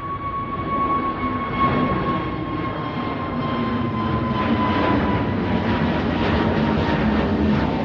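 Jet airliner engines running loud, with a high whine that slowly drops in pitch over a broad rushing noise that grows louder.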